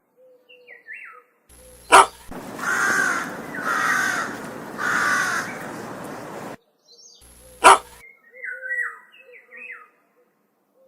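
A crow cawing three times in a row, about a second apart, with faint short chirps before and after. Two sharp clicks, the loudest sounds, come about 2 seconds in and near the 8-second mark.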